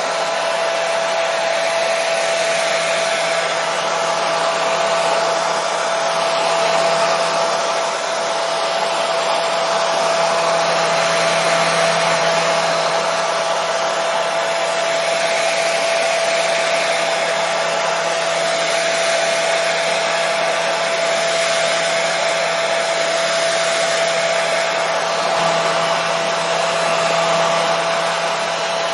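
Hair dryer running steadily: an even rush of air over a constant motor whine, used as white noise.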